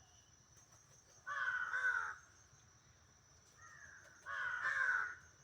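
Crow cawing: a long harsh caw about a second and a half in, a fainter short call, then another long caw near the end.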